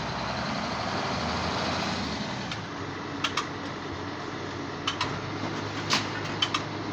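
A boom truck's engine running steadily, louder for the first two seconds or so, with several sharp metallic clinks in the second half.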